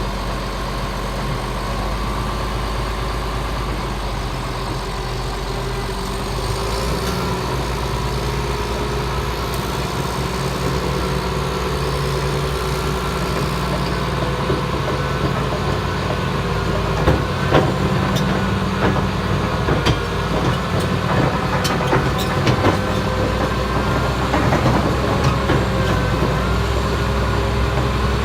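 Caterpillar D6T XL dozer's diesel engine running steadily, its note shifting a little about seven seconds in. From about halfway on, a series of sharp knocks sounds over it.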